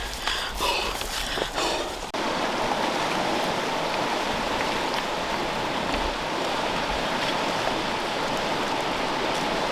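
Steady rushing noise of running water. A few brief knocks come in the first two seconds.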